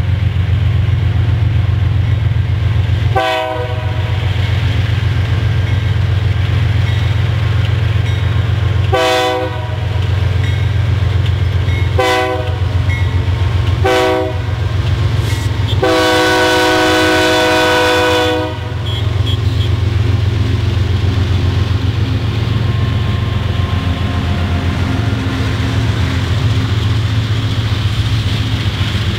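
Three BNSF GE diesel locomotives (AC4400CW, ES44AC and C44-9W) pulling a loaded coal train pass close by with a deep engine rumble. The lead unit sounds its horn in several short blasts a few seconds apart, then one long blast of about two and a half seconds. After the horn, the coal hoppers roll by with a steady clatter of wheels on the rails.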